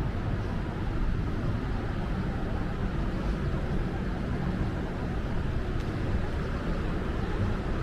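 Steady low rumble of city road traffic, an even wash of noise without distinct events.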